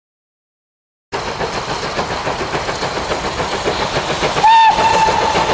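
Silence, then a steam locomotive running cuts in abruptly about a second in. Near the end its steam whistle sounds one held, steady note.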